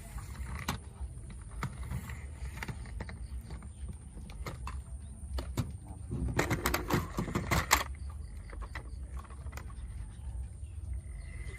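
Scattered clicks and knocks over a low rumble, with a dense run of clatter about six to eight seconds in.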